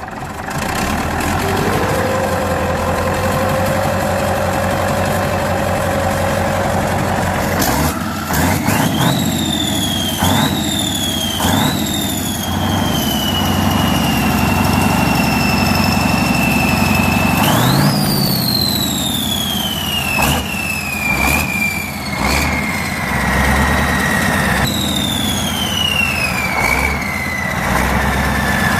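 A large engine running, blipped several times: a high whine jumps up in pitch with each blip and then falls slowly away over several seconds, over a steady low rumble.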